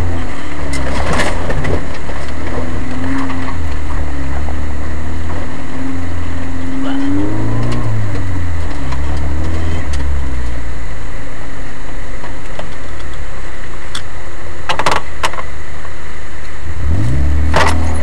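Engine of a 4x4 running loud and rough, its pitch rising and falling as it pulls away and drives on. Two sharp knocks near the end.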